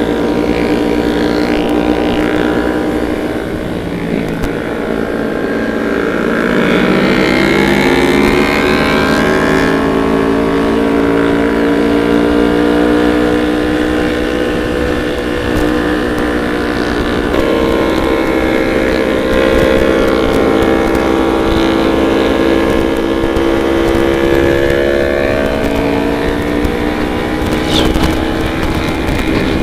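Motorcycle engine running under way, its pitch climbing under acceleration and dropping back at gear changes, about 10 seconds in and again near 17 seconds.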